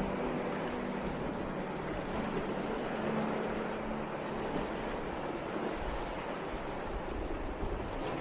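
Sea waves washing onto a sandy beach in a steady surf hiss, with a faint low hum near the start and again around the middle.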